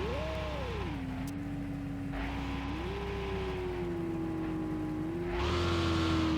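Car engine running with a quick rev blip about half a second in, then holding a slightly higher steady speed, with a louder rev near the end.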